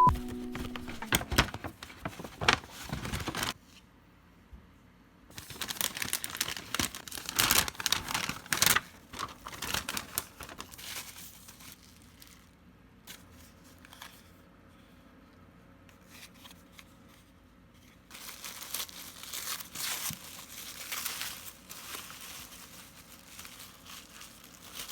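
Paper or wrapping being handled, crumpled and torn open, in irregular rustling bursts with short quiet pauses between them.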